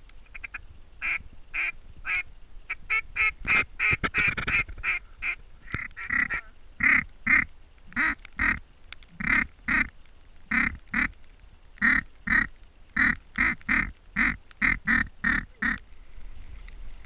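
Duck call blown in a steady series of short, loud quacks, mostly in pairs at about two a second, stopping near the end.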